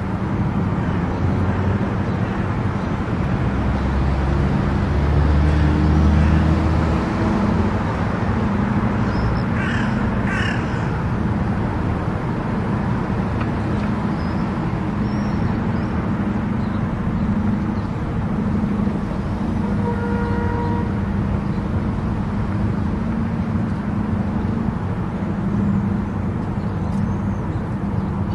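Car cruising on an expressway: steady tyre and engine noise with a low hum. Two short high calls sound about ten seconds in, and a brief pitched tone near twenty seconds.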